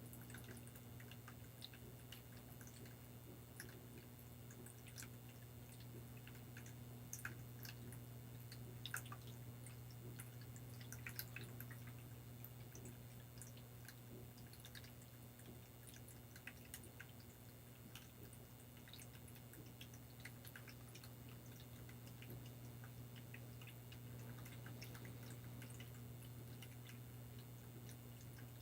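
Faint water dripping and trickling: scattered small drips over a steady low hum.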